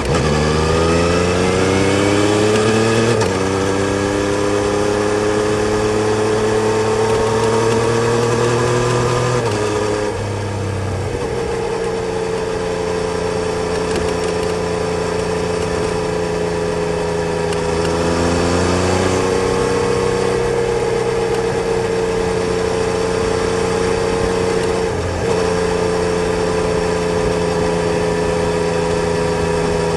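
Yamaha Tracer 900 GT's three-cylinder engine under way. It accelerates hard at first, with a gear change about three seconds in. The revs climb slowly, drop about a third of the way through, then hold steady with brief dips around two-thirds and five-sixths of the way through.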